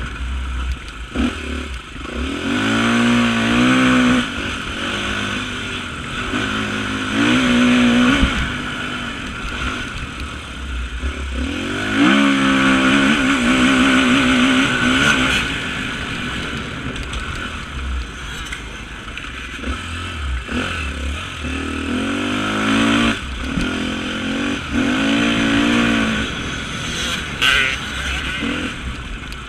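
Off-road motorcycle engine revving hard and easing off again and again, its pitch rising and falling in repeated sweeps as it works through the gears on a cross-country course.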